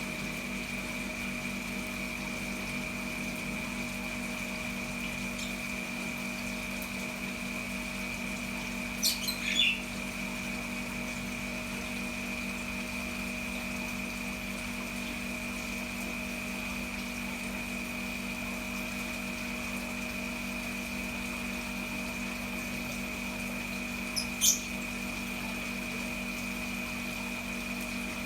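A steady machine hum throughout, with two brief, high-pitched parrot calls: a short cluster about nine seconds in and another near the end.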